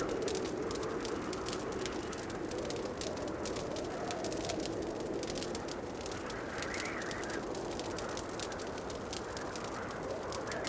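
Wood fire burning in a fireplace, crackling with many small quick pops over a steady rushing sound that swells and fades every few seconds.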